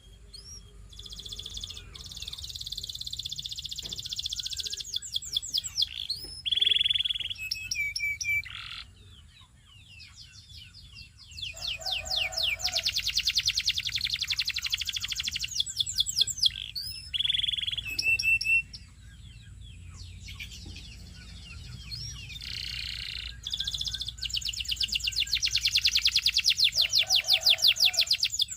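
A Belgian singing canary sings in long phrases of fast trills and high rolling notes. Now and then it drops briefly to a few low notes. Short pauses separate the phrases.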